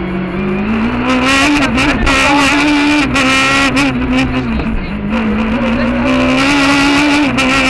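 Peugeot 306 Maxi kit car's high-revving four-cylinder engine pulling hard, heard from inside the cabin. Revs climb in the first second, stay high with small wobbles, drop briefly about halfway through and climb again.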